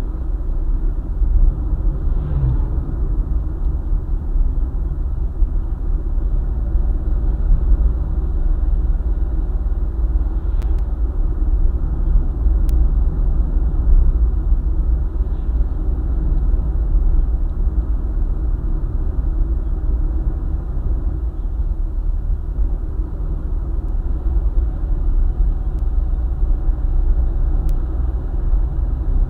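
A car driving along a highway: a steady low rumble of engine and tyre road noise.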